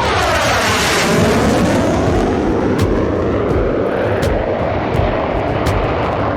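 Loud jet engine noise of a MiG-35 fighter flying past, from its twin RD-33MK turbofans. A sweeping whoosh falls in pitch over the first couple of seconds and rises again later as the jet passes.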